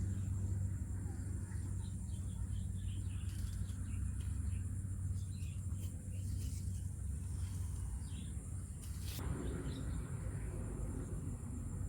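Outdoor nature ambience: a steady high drone of insects with scattered short bird chirps, over a steady low rumble. There is one brief knock about nine seconds in.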